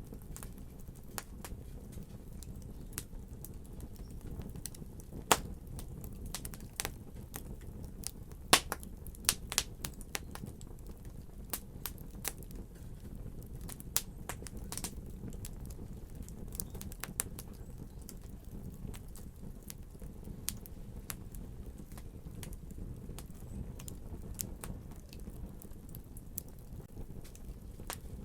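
Wood fire crackling: a steady low rumble under irregular sharp pops and snaps, a few louder pops in the middle.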